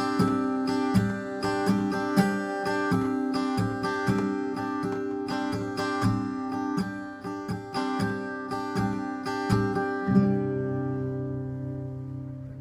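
Acoustic guitar fingerpicking chords in a steady rhythm, ending about ten seconds in on a final low chord that rings out and fades.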